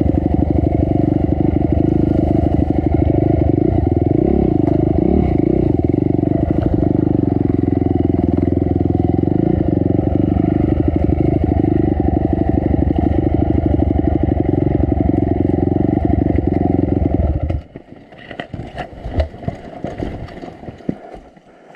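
Honda CRF250 dirt bike's single-cylinder four-stroke engine running steadily, then cutting off suddenly near the end, followed by scattered light clicks and knocks.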